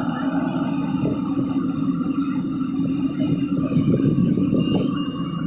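Agricultural harvester engine running with a steady, loud drone and some rattle.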